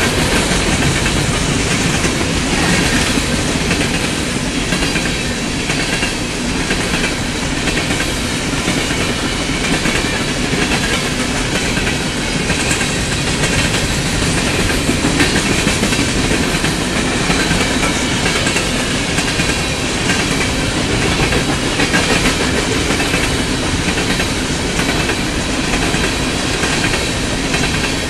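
Empty covered hopper cars of a BNSF grain train rolling past close by: a steady loud rolling noise of steel wheels on rail with repeated clacks over the joints.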